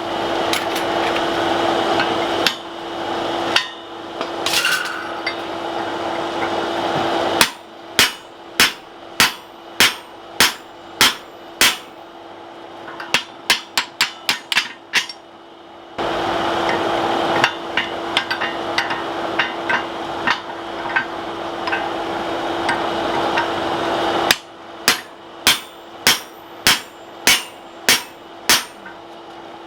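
Hand hammer striking hot mild steel on an anvil, forging the sides of an axe eye back in: a run of even blows about one and a half a second, speeding into a quicker flurry, then another even run near the end. Between them the forge runs with a steady rush and hum, at the start and again through the middle.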